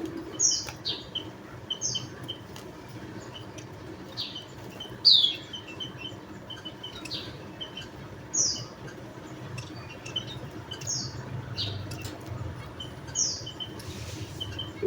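Javan munias calling: short, high notes that slide downward, repeated about every second, with softer short chips in between.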